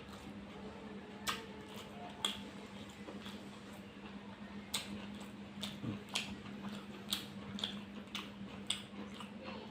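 Close-up eating sounds of rice and meat curry: wet chewing and mouth smacks with irregular sharp clicks, over a steady low hum.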